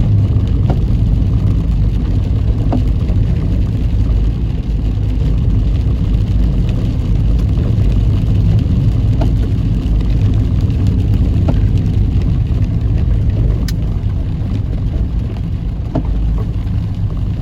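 Car driving in heavy rain: a steady low rumble of engine and road noise, with a few faint ticks scattered through it.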